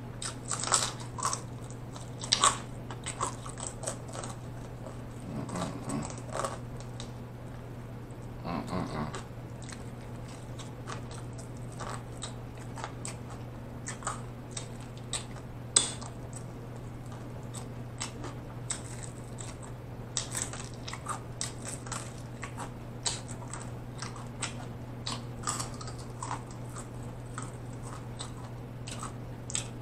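Close-miked mouth sounds of someone eating fried chicken: crunchy bites and wet lip smacks at an irregular pace, louder in the first few seconds. A steady low hum runs underneath.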